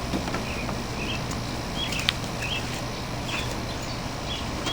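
Small birds chirping over and over in short calls, with one sharp click about two seconds in, over a steady low outdoor background rumble.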